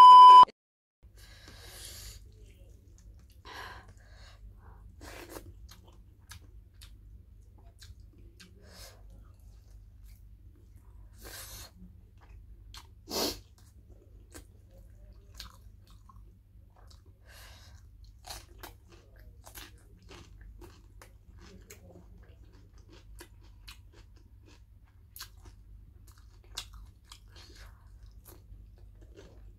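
A brief test-tone beep with the colour-bars glitch at the very start. Then close-miked eating: quiet chewing, mouth smacks and scattered crunches as pork and rice are eaten by hand, with one louder crunch about 13 seconds in, over a faint low hum.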